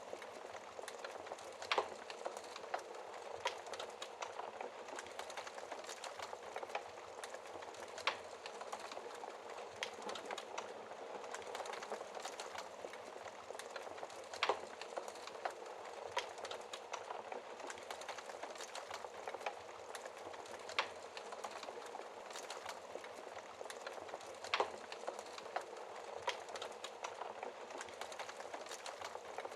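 Wood fire burning in a fireplace: a steady soft hiss of flames with frequent small crackles and, every few seconds, a sharper pop from the burning logs.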